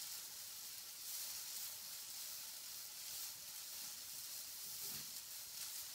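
Hula hoops spinning around the waist, a faint steady swishing hiss that swells and fades unevenly.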